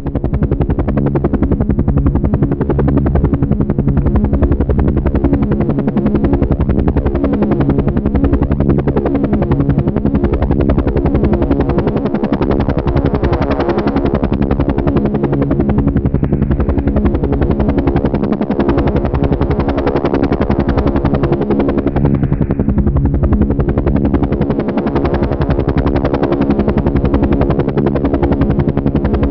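Helicopter running steadily, its rotor beating in a fast, even pulse over a steady engine drone. It swells and fades a little now and then.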